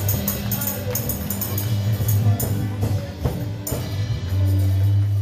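Worship band music with a tambourine shaking on the beat over a strong bass line. Near the end the band settles onto one held bass note.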